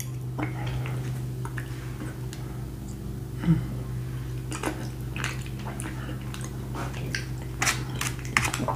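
Close-miked chewing of a mouthful of baked beans, with scattered clicks of a metal fork against the foam takeout container, more of them near the end. A steady low hum runs underneath.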